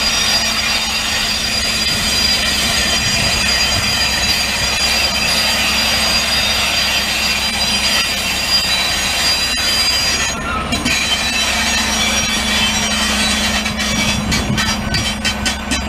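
Double-deck passenger coaches rolling slowly past behind a small diesel shunting locomotive, the wheels squealing steadily on the curved track. About two-thirds of the way through, the squeal fades and the locomotive's diesel engine hum takes over as it draws level and stops, with a run of clicks near the end.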